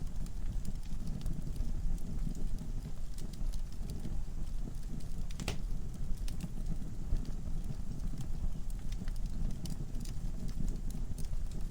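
Wood fire burning in a fireplace: a steady low rumble of flames with scattered crackles and pops from the logs, one sharper pop about halfway through.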